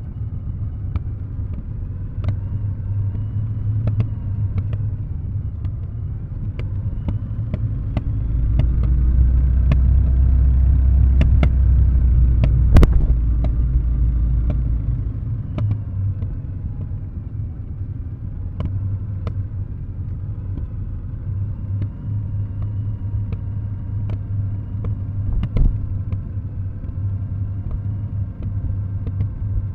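Kawasaki W650 air-cooled parallel twin through Nasert Trad mufflers, coasting downhill with the throttle closed, its exhaust a steady low rumble. Partway through the rumble grows louder and deeper for several seconds, then settles back, with short sharp clicks scattered over it.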